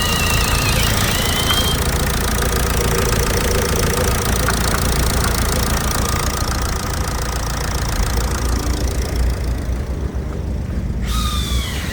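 Ford 1.8 TDCi four-cylinder turbodiesel engine (code R3PA) idling steadily on an engine test. A brief high squeal near the end.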